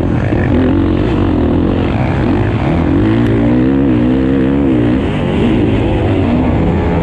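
Motocross motorcycle engines racing, the riders working the throttle so the engine note rises and falls, loudest about three to five seconds in.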